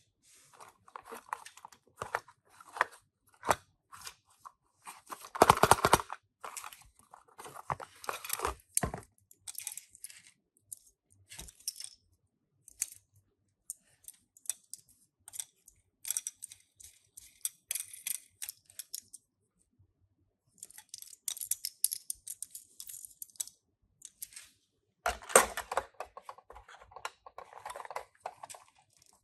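Hands opening toy die-cast car packaging: cardboard and plastic crinkling, rustling and tearing in irregular bursts, with many small clicks and taps, loudest about five seconds in and again near the end.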